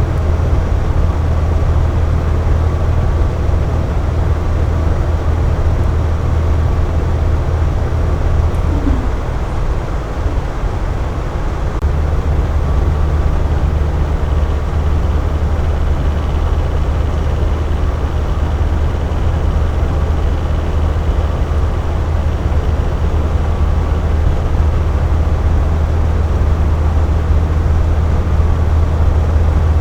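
Air conditioner running with a steady low hum and an even whooshing noise, plus a few faint steady tones above it. The low hum eases for a few seconds about a third of the way in, then comes back.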